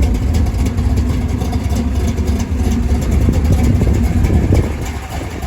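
Built 383 big-block V8 of a 1966 Plymouth Belvedere drag car, idling steadily with a deep rumble.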